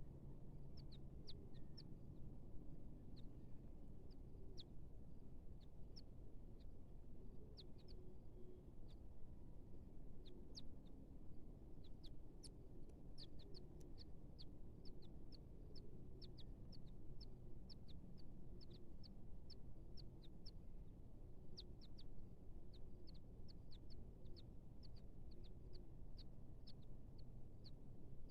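Birds at a nest: many short, high cheeps, with soft, low calls repeating about once a second underneath.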